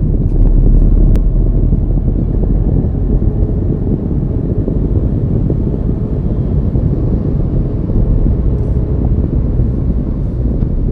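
Steady low rumble of a car driving along the road: engine and tyre noise, with no change in pace.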